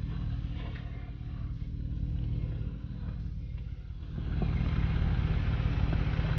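Jeep engine running at low speed while crawling over rock, getting louder about four seconds in as throttle is added, with a few light clicks.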